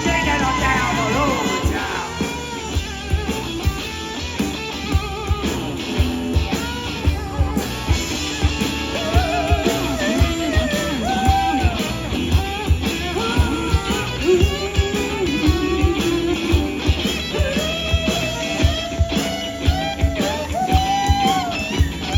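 Live blues-rock band playing an instrumental break: a lead guitar line with bent notes over a steady drum beat and bass.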